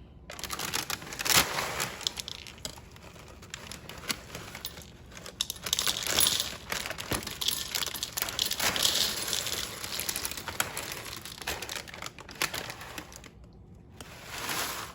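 Plastic bag inside a cereal box crinkling and rustling as it is handled, with scattered sharp clicks.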